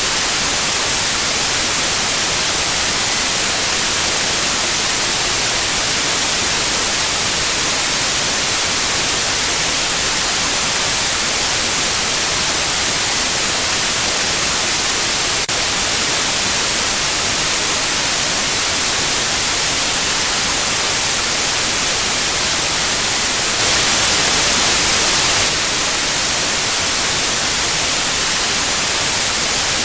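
Steady white-noise hiss for tinnitus sound therapy, with a thin, very high-pitched steady tone at about 9645 Hz that comes in about a quarter of the way through and cuts off shortly before the end. The hiss gets slightly louder for a couple of seconds near the end.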